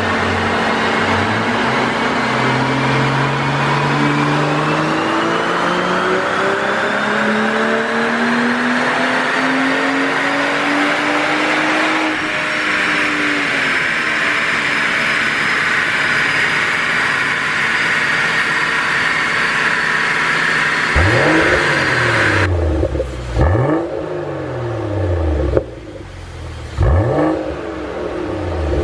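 BMW 540i's turbocharged 3.0-litre inline-six at full throttle on a chassis dyno, revs climbing steadily for about twelve seconds and then holding high. Near the end the throttle is closed and then blipped several times, the revs shooting up and falling away after each blip.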